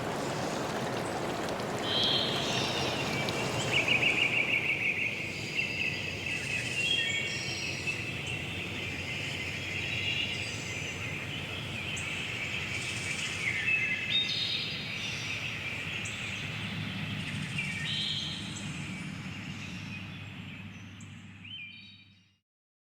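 Small birds chirping and trilling in a forest, over running stream water that dies away in the first few seconds. The whole soundscape fades out to silence near the end.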